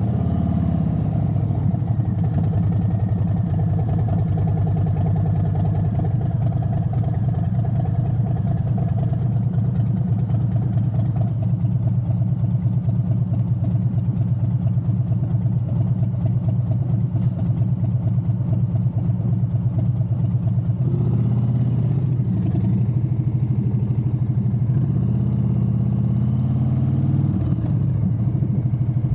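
Motorcycle engine idling steadily, its pitch bending a few times in the last third with light throttle changes.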